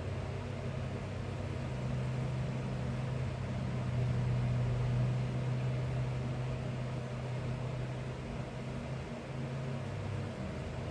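A steady low mechanical hum, swelling slightly about four seconds in and easing off near the end.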